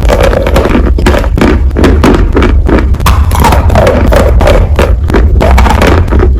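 Loud, close-miked chewing and crunching of food: a dense, irregular run of crisp crunches and smacks, over a steady low rumble.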